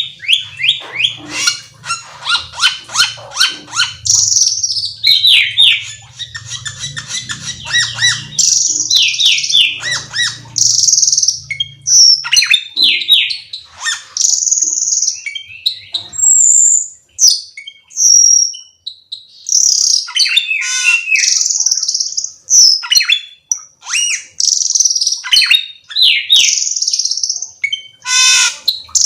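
Cucak keling songbird singing continuously, a fast, varied string of whistles, chirps and rattling trills. A low hum runs underneath for roughly the first half.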